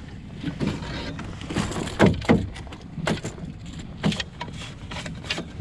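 A few scattered knocks and clunks of gear being handled in a small boat, the strongest about two seconds in, over steady wind and water noise.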